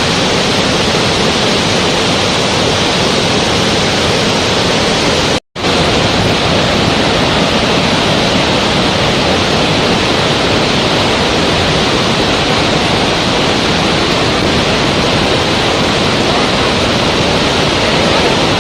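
Steady rushing water, an even unbroken wash of noise, cut by a brief moment of total silence about five and a half seconds in.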